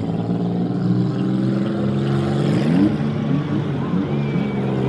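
Several demolition derby cars' engines running together, revving with rising pitch sweeps as the cars accelerate.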